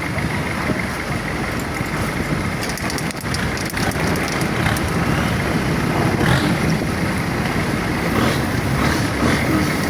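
Boat engine running steadily under way, with rushing wind and water noise over it.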